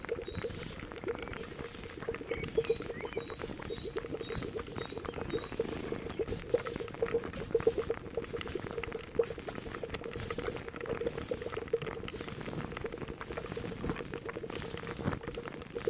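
A cauldron of liquid boiling, with steady bubbling and dense small pops. During the first few seconds a faint, high bird chirp repeats about twice a second.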